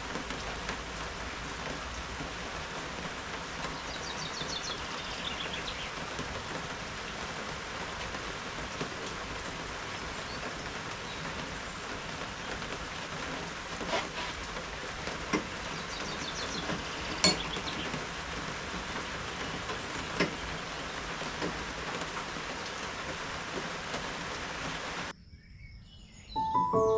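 Steady rain falling, with a few louder single drops striking near the middle. The rain cuts off suddenly about two seconds before the end.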